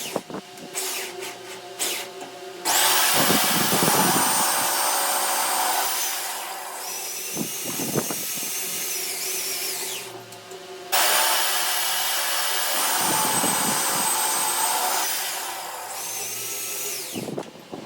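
Electric power tool run in a few short blips, then in two long bursts of several seconds each, with a high whine that falls away as it spins down after each burst.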